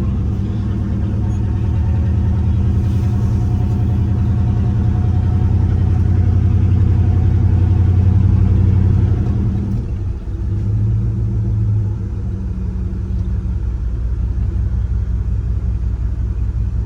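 A 1995 Dodge Ram 1500's 5.9 Magnum V8, its muffler cut off, running under way with a deep, somewhat loud exhaust drone. It pulls harder and louder until it eases off briefly about ten seconds in, then settles into a steady cruise.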